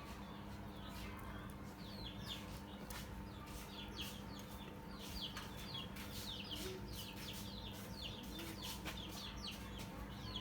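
Birds chirping busily: many short, high-pitched, falling chirps, several a second, growing denser toward the end, over a steady low hum.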